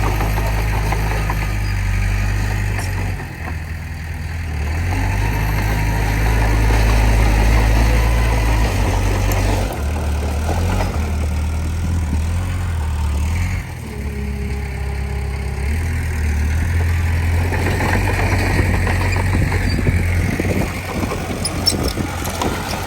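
Diesel engine of a Komatsu D20P bulldozer running as it works, its speed stepping up and down several times, with a rough mechanical clatter over the low engine note.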